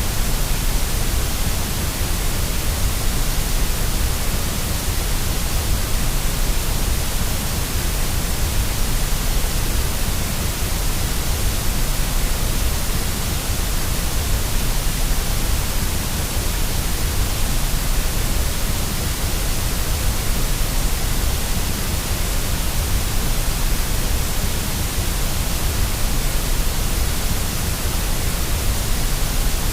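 Steady white-noise hiss with a low rumble underneath, unchanging throughout, played as a sleep sound to soothe a baby.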